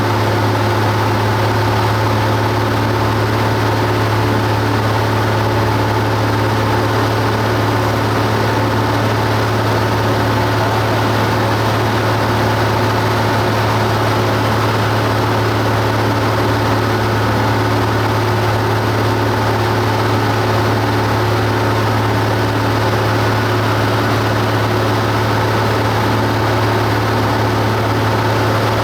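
Cessna 172 Skyhawk's piston engine and propeller running steadily in flight: a loud, unchanging low drone.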